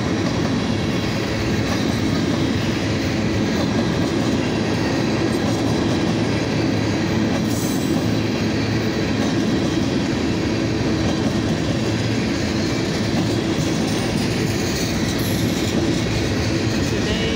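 A freight train of tank cars rolling past, with the steady rumble of steel wheels on the rails.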